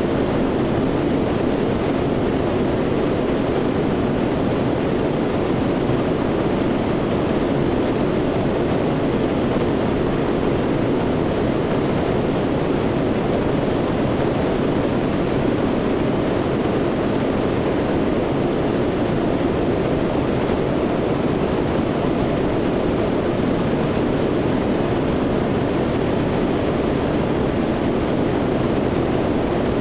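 Steady noise of a C-130's four turboprop engines and airflow heard aboard the aircraft in flight, an even rush with no changes.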